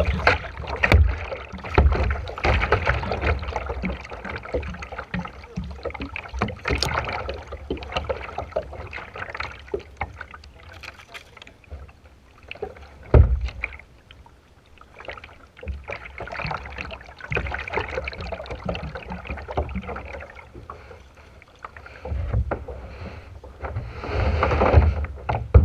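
Kayak paddling: paddle strokes splashing in the water, with irregular knocks and one sharp knock about halfway through.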